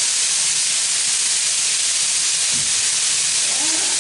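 Chicken pieces frying in a skillet: a steady, even sizzle.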